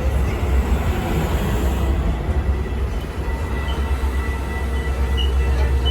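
Metra commuter train at the platform, a steady heavy low rumble with a faint steady high whine over it.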